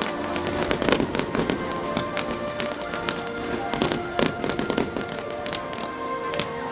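Fireworks going off in a dense run of sharp pops and crackles, several a second, with music playing alongside as steady held tones.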